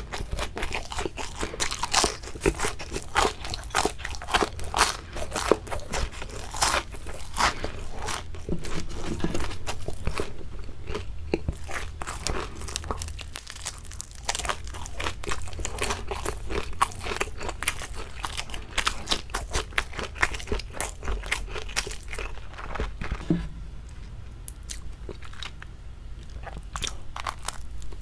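Close-miked biting and chewing of crispy fried shrimp. Dense crunches fill the first ten seconds or so, then give way to softer chewing, with a brief lull near the end.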